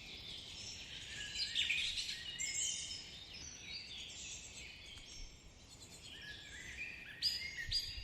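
A chorus of birds chirping and calling, many short varied notes overlapping. Near the end, one bird repeats a short note about three times a second.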